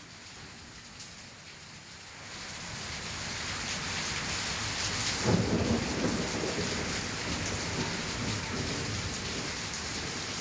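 Heavy rain pouring down, growing louder about two seconds in, with a crack of thunder near the middle.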